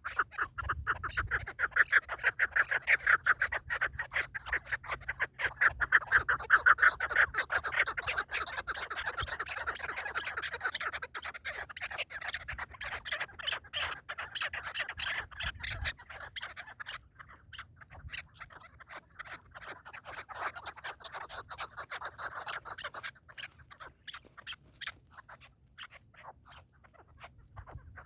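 Partridges calling: a long rapid series of short repeated notes, loudest in the first half, breaking off briefly partway through and thinning out near the end.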